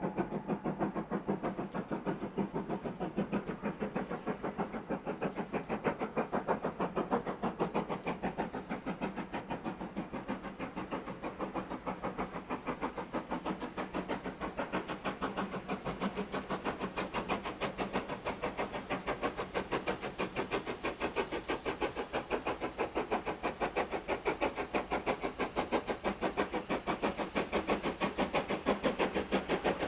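Two-cylinder GWR Modified Hall 4-6-0 steam locomotive working hard, its exhaust beating in a fast, even rhythm that grows slightly louder near the end.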